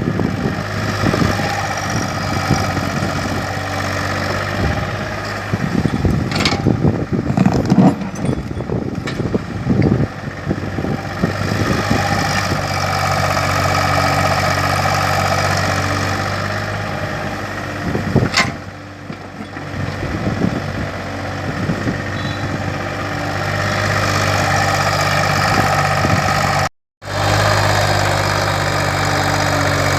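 Kobelco hydraulic excavator's diesel engine running steadily, with a run of clattering knocks about six to ten seconds in and a single sharp knock around eighteen seconds. The sound cuts out for a split second near the end.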